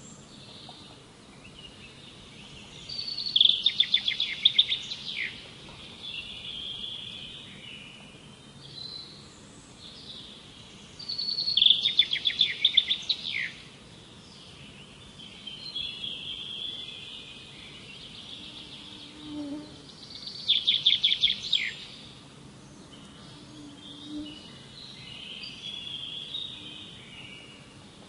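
Wild songbirds singing: one bird gives a loud, rapid run of high notes lasting about two seconds, three times, with softer chirps from other birds in between.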